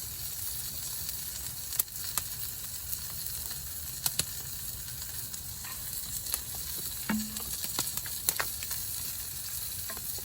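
Chicken frying in a pan over a campfire: a steady sizzle with scattered sharp pops.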